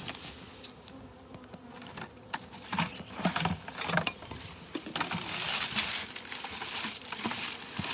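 Honeybees buzzing around, with rustling, crunching and clicks as fuel is packed into a bee smoker.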